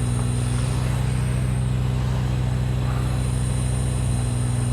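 Engine running steadily at a constant speed, an even low hum.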